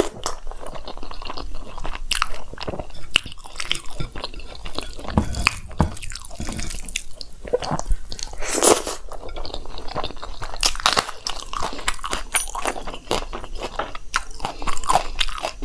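Close-miked chewing and mouth sounds of a person eating chickpea curry mixed with rice by hand, with irregular small smacks and clicks throughout.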